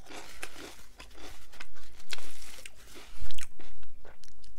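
Mouth crunching and chewing tortilla chips: a string of irregular crisp crunches, the loudest a little past three seconds in.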